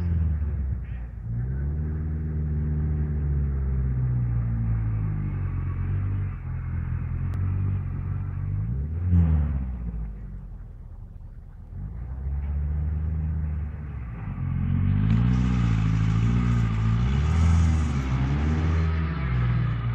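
A sporting trials car's engine revving up and down as it climbs a steep, muddy wooded slope. The revs rise and fall over and over, ease off and go quieter about ten seconds in, then pick up again and run harder in the last few seconds.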